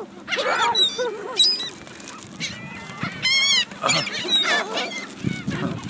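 A flock of gulls calling over one another, many overlapping cries, with a fast, high, rippling call about three seconds in.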